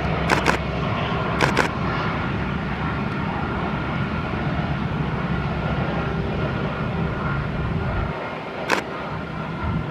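Jet engines of an Airbus A319 running steadily, with a low rumble that drops away near the end. A few sharp clicks sound near the start and once more near the end.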